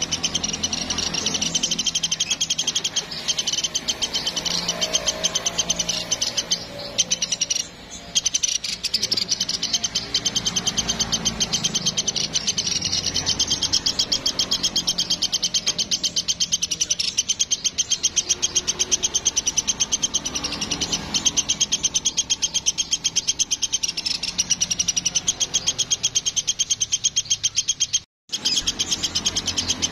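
Recorded bird call of the 'platuk sampit' bird: a fast, continuous high trill of evenly spaced pulses, with softer lower calls beneath. It breaks off briefly a couple of times and cuts out for a moment near the end.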